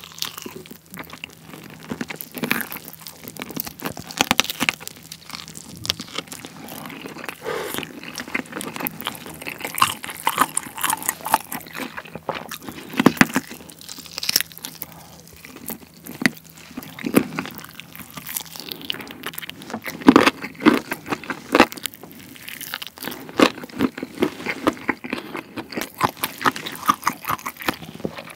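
Close-miked biting and chewing of a sauce-glazed roasted chicken drumstick, with irregular mouth clicks and lip smacks, the loudest around twenty seconds in.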